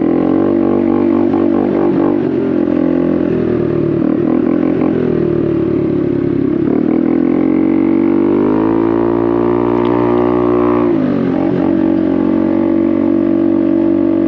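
Honda Navi's small single-cylinder engine running through a Vance & Hines exhaust while riding, a steady drone. About eight seconds in the revs climb for a few seconds, then fall sharply as the throttle is eased off, and settle to a steady note.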